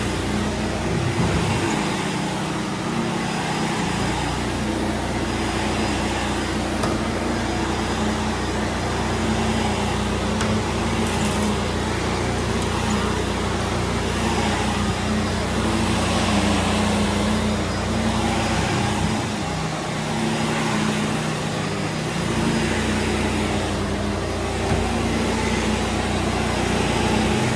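Vacuum cleaner running steadily over carpet, with the hum of a pressure washer running in the background.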